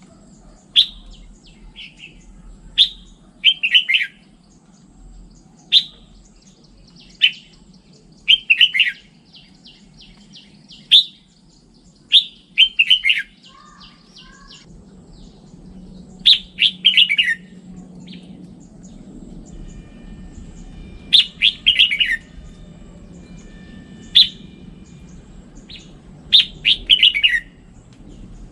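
Red-whiskered bulbul singing: short, loud, whistled phrases repeated every second or two, with softer runs of quick notes between them.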